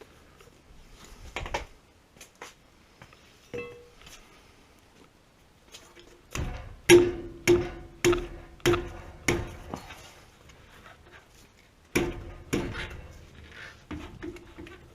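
Metal being struck repeatedly: a run of about six sharp knocks, each with a short ringing tone, then two more a couple of seconds later, amid smaller clanks of tools and fittings.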